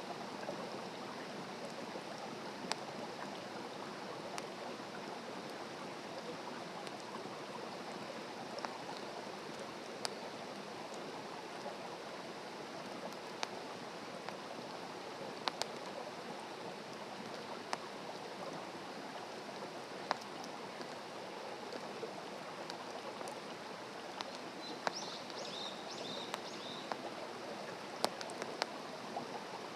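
Open wood campfire crackling, with sharp single pops every second or two over a steady hiss. A bird chirps briefly near the end.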